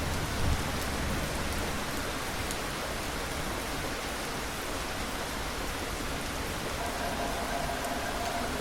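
Steady rain falling, an even hiss of drops, with the tail of a thunder rumble dying away in the first half-second. A faint steady hum comes in near the end.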